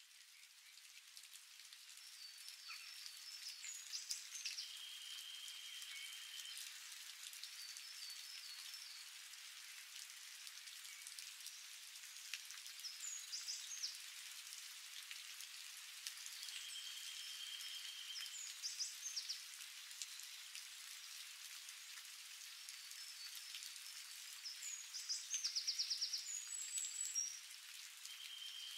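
Steady light rain hiss, with birds calling over it: short chirping phrases and a held whistled note that comes back about every ten seconds, and a rapid trill near the end.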